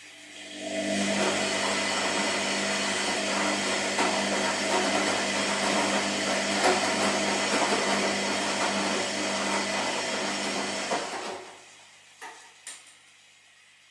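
Washing machine motor turning the drum for about ten seconds, a steady hum with a noisy wash over it, then stopping. Two light clicks follow.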